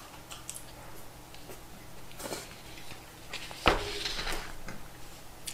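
A man chewing a mouthful of pork cutlet rice bowl, with faint clicks and rustles from wooden chopsticks and a paper bowl, and one sharp knock a little past halfway.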